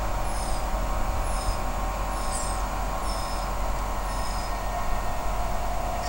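A small bird repeating a short high chirp about once a second, stopping about four and a half seconds in, over a steady mid-pitched hum and a low rumble.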